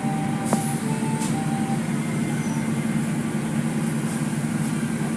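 Car wash machinery running with a steady low drone.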